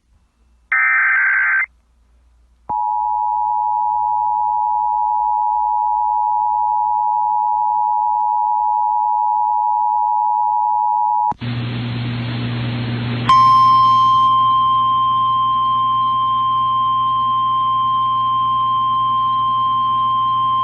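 Emergency alert broadcast tones for a high wind warning. A short burst of data warble comes about a second in, then the two-note attention tone holds steady for about eight and a half seconds. A couple of seconds of hiss with a hum follow, then a single steady alert tone sounds over a low hum.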